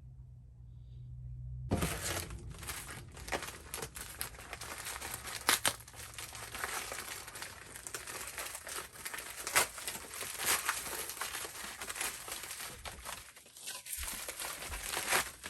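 Crinkling and rustling of a sheet of paper-like material being handled and crumpled, with many sharp crackles, starting about two seconds in.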